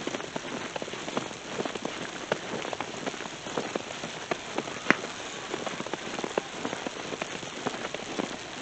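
Footsteps crunching through about an inch of fresh, wet snow, a dense irregular crackle of packing snow.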